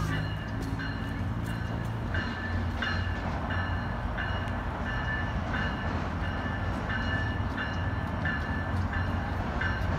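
Train crossing a steel truss railway bridge: a steady low rumble, with short high tones repeating about twice a second.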